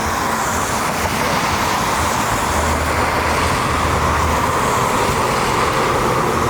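Steady rushing roar of an airliner's jet engines as it taxis, with a low rumble underneath.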